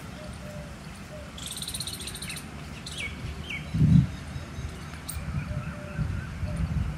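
Birds calling outdoors: a fast, high chattering trill about a second and a half in, then a few short falling chirps. There is a loud low thump near the middle over a steady low rumble.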